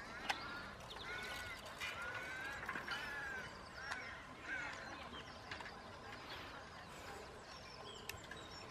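Birds calling over and over in short, arched, honking calls, busiest in the first five seconds and thinning out after. A single sharp click comes about a third of a second in.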